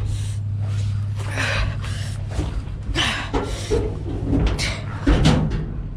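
Knocks and scrapes from hand work on an old truck's front end as the steering is turned, over a steady low hum that weakens about two seconds in.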